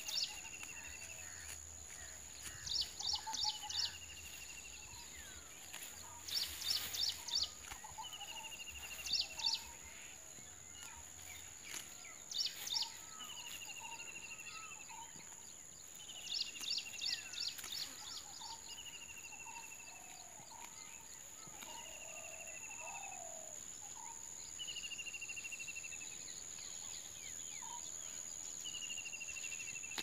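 A songbird repeating the same short phrase every few seconds, a quick run of high notes followed by a slightly falling trill, over a steady high-pitched insect drone.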